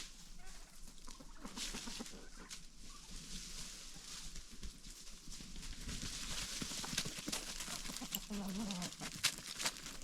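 Chickens clucking amid many small clicks and scratches, with a short, low call near the end.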